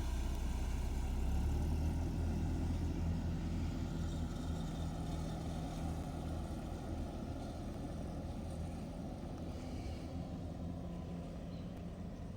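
A motor vehicle's engine running with a steady low hum that slowly fades.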